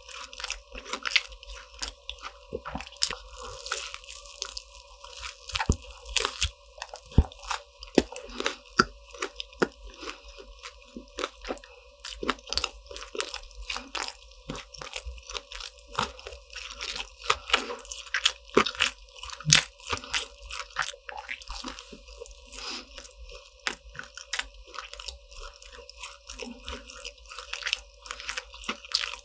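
Close-miked crunching and chewing of crisp croffles: many irregular crackly bites and crunches one after another, over a faint steady hum.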